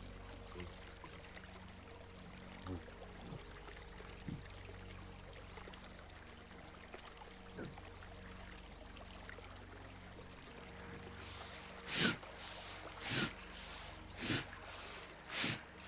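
A small stream trickling steadily. From about eleven seconds in comes a run of forceful, hissing breaths through the nose, a little under two a second: Bhastrika (bellows breath) pranayama, with active in- and out-breaths driven from the chest.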